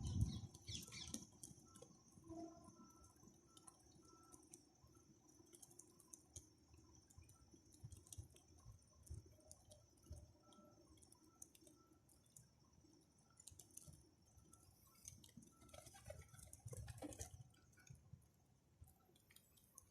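Near silence, with faint scattered clicks and a faint steady high hiss.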